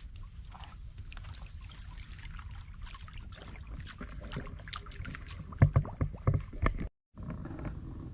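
Water splashing and sloshing in shallow floodwater, with scattered small knocks and a run of loud splashes and knocks about five and a half seconds in, over a steady low rumble; the sound cuts out briefly for an edit just before seven seconds.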